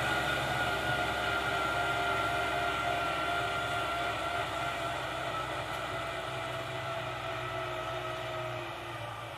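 Kubota tractor working in a field: the engine runs with a steady low rumble under a high whine. The whine sinks a little in pitch as the whole sound slowly fades near the end.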